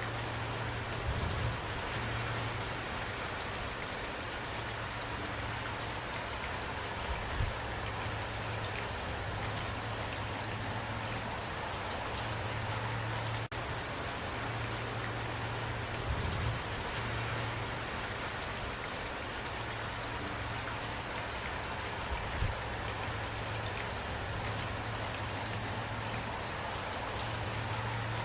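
Steady rain falling, a dense, even patter of drops, with a low hum underneath and a few soft low thumps.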